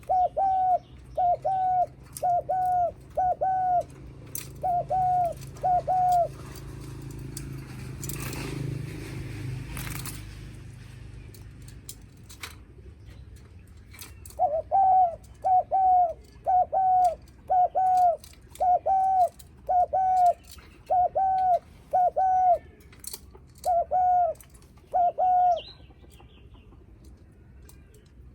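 Spotted dove giving rapid, short repeated coos ('gù'), about two a second: the bowing coo a male aims at a newcomer. The cooing stops for several seconds in the middle, where there is a rustling noise, then starts again.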